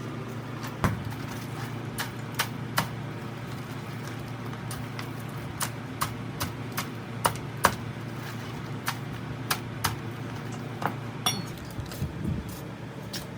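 Irregular sharp taps and clinks, about twenty of them, over a steady low hum.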